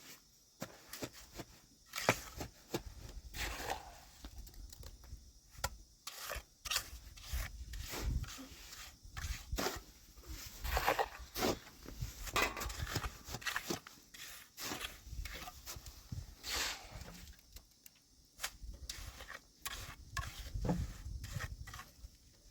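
Irregular rubbing and scraping noises, short strokes coming one after another with brief pauses between them.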